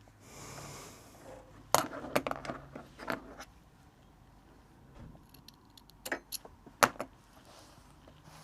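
Sharp clicks and light metallic jingling of small hard objects being handled, in two clusters: a run of clicks about two seconds in, then jingles and two sharp clicks near the end.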